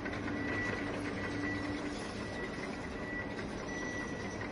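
Remote-control toy excavator's small electric motors running with a steady whir, and a high beep sounding on and off repeatedly.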